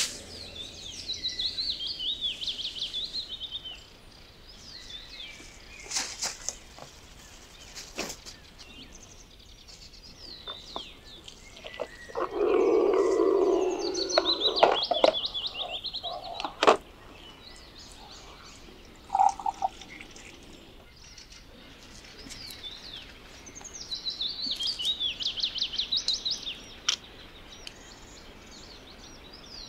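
Songbirds singing outdoors in bouts of fast, repeated trilled notes, three times, with scattered sharp clicks and handling noises. Near the middle there is a louder rushing noise lasting about two seconds.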